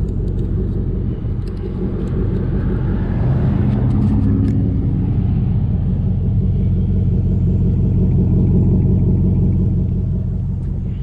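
Jeep SRT8's V8 running through a Gibson cat-back exhaust, a steady low rumble that swells a few seconds in and eases off near the end.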